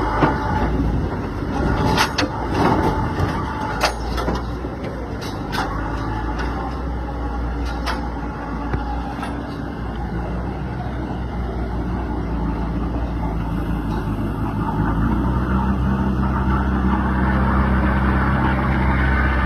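Truck engine running steadily, with several sharp knocks and clatters in the first eight seconds. The engine grows louder near the end.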